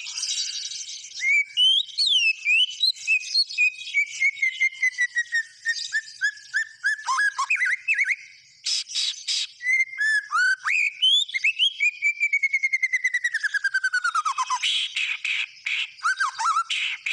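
White-rumped shama (murai batu) singing continuously: long runs of rapid whistled notes that step down in pitch, fast trills and sweeping slurs, broken by harsh rasping bursts about nine seconds in and again near the end.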